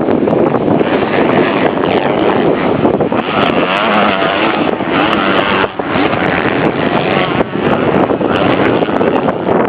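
Motocross dirt-bike engines running loud and continuous, their pitch rising and falling in the middle as riders rev through the gears.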